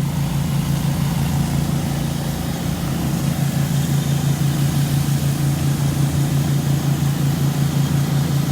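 Gas engine of a pressure washer running steadily, a constant low drone with a fast, even pulse.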